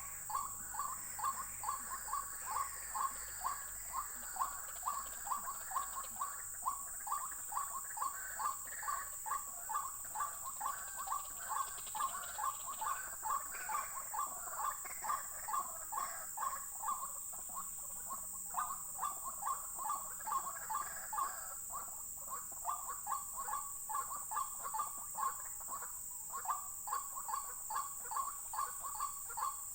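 White-breasted waterhen (ruak-ruak) calling: a long, monotonous run of short, harsh notes, about two a second. Fainter, higher calls overlap at times.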